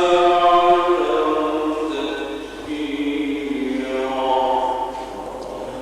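A male Quran reciter's voice in the melodic mujawwad style, holding long ornamented notes that step slowly in pitch. One phrase runs until about two seconds in, and a second rises and sustains before fading near the end.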